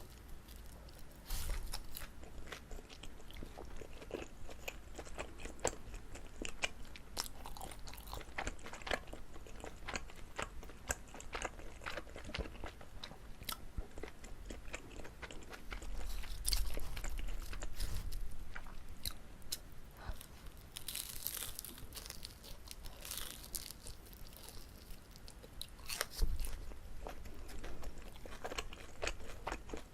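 Close-miked eating: biting into and chewing pan-fried jijilkutteok, a chewy Korean rice cake filled with gondre greens, with many small sticky, crackling mouth sounds and a few heavier bites.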